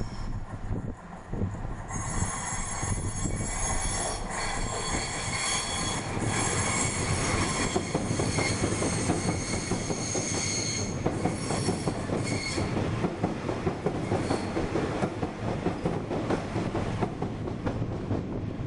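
A passenger train runs through the station with a continuous rumble of wheels on rail. From about two seconds in to about twelve seconds, a high-pitched metallic squeal of several steady tones rides over it.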